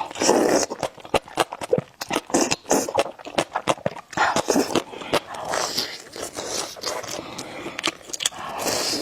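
Spicy noodles being slurped and chewed close to the microphone, with many sharp clicks and smacks.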